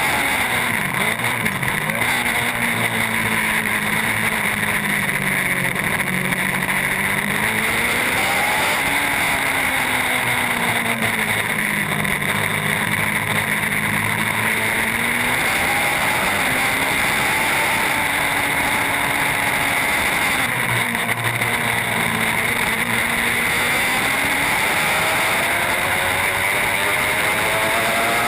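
Racing superbike engine, its pitch falling and rising several times as the revs drop and climb again, over a steady rushing noise.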